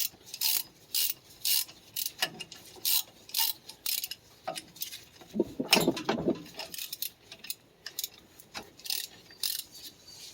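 Hand ratchet wrench clicking in repeated back-strokes, about two a second, as a 17 mm bolt on the steering is worked loose. A heavier clunk comes about six seconds in.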